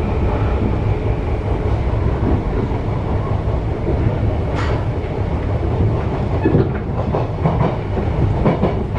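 Enshu Railway 1003-series electric train running, heard from inside its cab: a steady low rumble of the running gear with wheels clacking over rail joints. The clacks come more often in the second half.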